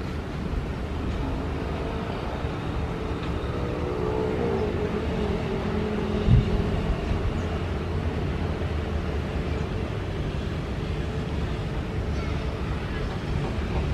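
Steady low rumble with a passing vehicle whose engine note falls in pitch about four to five seconds in, and a single sharp thump just after six seconds.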